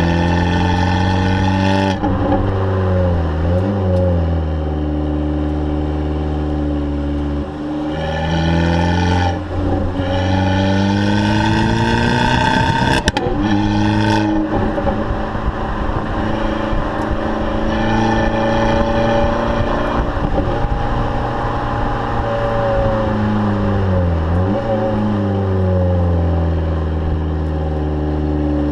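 Abarth 500's turbocharged 1.4-litre four-cylinder engine running through its exhaust, mostly held at steady revs. The pitch dips and recovers a couple of times and climbs higher for several seconds in the middle.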